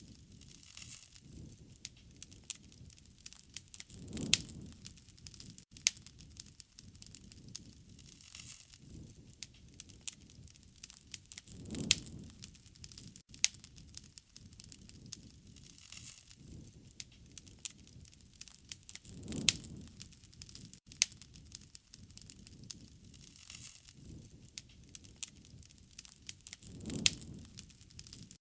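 Wood fire crackling, with many sharp pops and snaps. A soft low swell rises and fades four times, about every seven and a half seconds.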